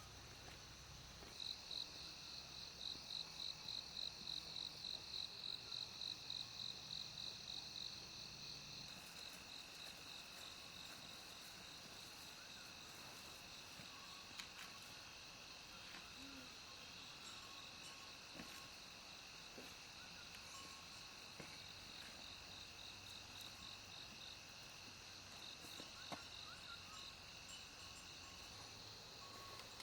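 Insects chirping in a high, pulsing trill at about three or four pulses a second, loudest in the first several seconds and then settling into a steadier high hum, with a few faint taps here and there.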